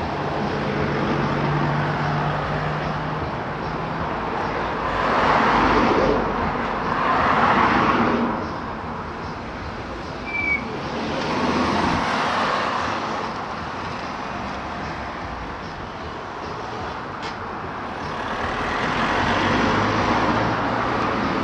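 Road traffic: several vehicles pass one after another, each swelling and fading over a few seconds.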